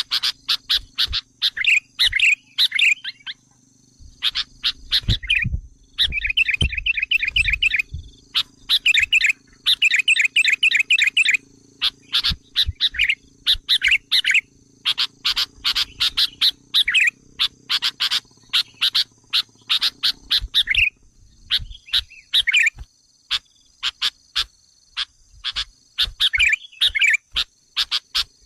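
Sooty-headed bulbul (kutilang) calling in quick bursts of rapid, chattering notes, group after group with short pauses between. These are agitated calls of the kind used as a lure to provoke wild bulbuls.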